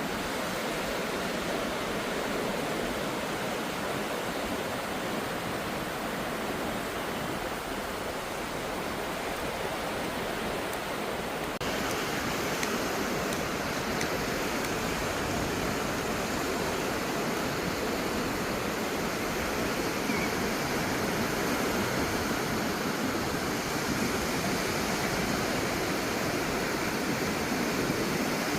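Steady rush of ocean surf breaking on a beach, with no distinct single waves standing out; about twelve seconds in it steps up a little louder and brighter.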